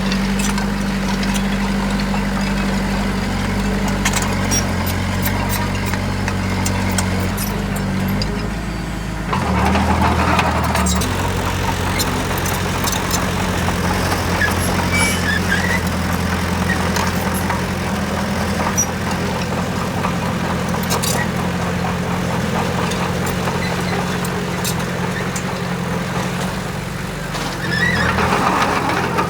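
Heavy diesel engine of construction machinery running steadily, its pitch shifting in steps. It grows louder and harsher under load about ten seconds in and again near the end.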